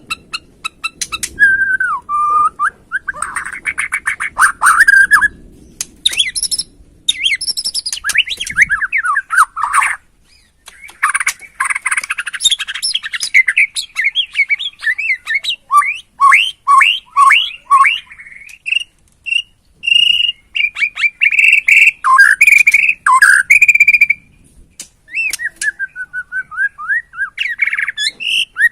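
Bornean shama (murai batu) singing a long, varied song of fluty whistles, fast trills and clicking rattles, broken by a few short pauses.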